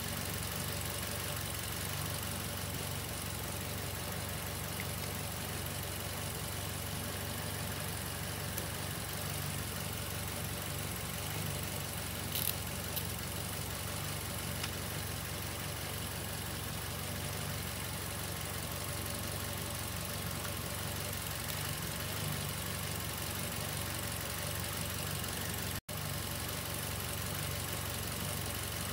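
2006 Mazda 5's four-cylinder engine idling steadily, heard from the open engine bay. It is warming up on a test run after an EGR valve replacement, to see whether its rough idle (code P0401) comes back.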